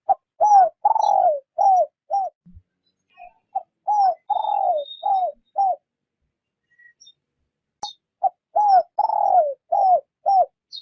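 Spotted dove cooing: three phrases of about five low, falling coo notes each, one note in each phrase drawn out longer, with pauses between phrases. It is a keeper's decoy dove calling in the 'rút bổi' style.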